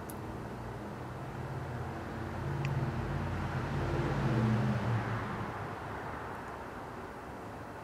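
Microwave oven running with a steady low hum. From about two and a half seconds in, a louder rumbling rush swells and fades away by about five seconds.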